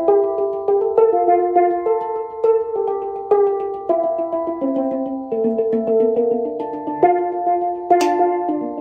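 Handpan being played by hand: quick runs of struck steel notes that ring on and overlap in a flowing rhythm, several strokes a second, with one sharper, brighter strike near the end.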